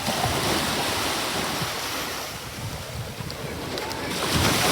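Sea waves breaking and washing in, with a surge at the start and a louder one about four seconds in.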